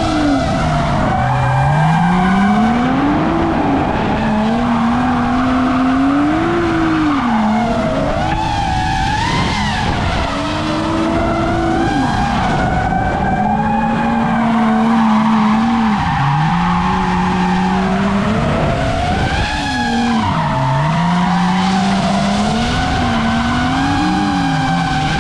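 Drift car engine revving up and down over and over, its pitch climbing and dropping every few seconds, with tires squealing through the slides.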